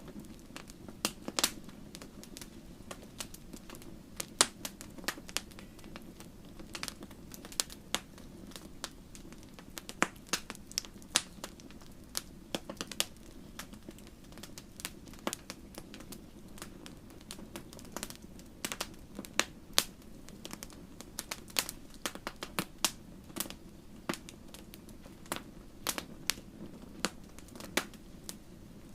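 Wood fire crackling: irregular sharp pops and snaps, several a second at times, over a soft steady rush of flames.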